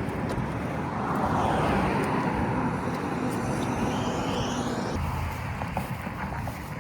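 A motor vehicle's engine runs outdoors, its whine rising in pitch over a few seconds. The sound changes abruptly about five seconds in.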